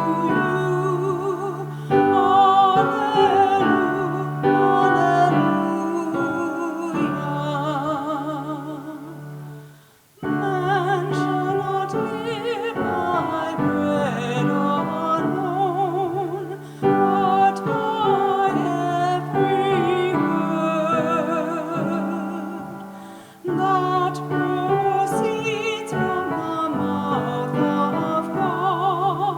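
A classical-style solo voice singing with strong vibrato over piano accompaniment. The phrases break off briefly about ten seconds in and again near twenty-three seconds, with the piano chords sustaining underneath.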